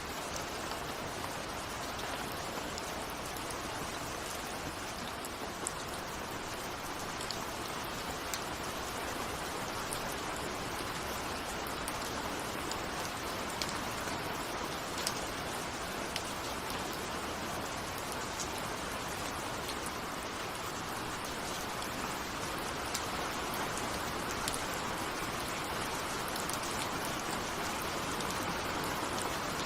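Steady rain falling, an even hiss with individual raindrops ticking against a window.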